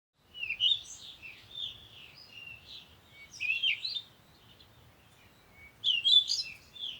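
Songbirds singing: quick, warbling chirps and whistled phrases in three bouts, with quieter gaps between them.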